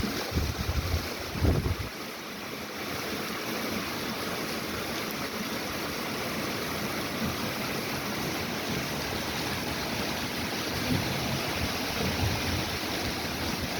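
Heavy rain pouring with a steady, even hiss. A few low thumps of wind on the microphone come in the first two seconds.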